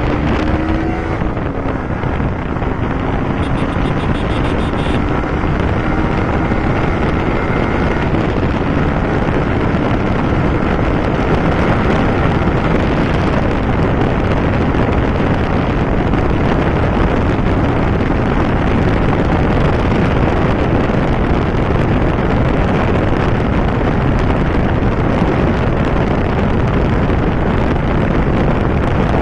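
Yamaha YZF-R15 V3's single-cylinder engine running hard at speed under heavy wind noise on the microphone. The engine note is faintly audible for roughly the first dozen seconds, then is buried in a steady wind roar.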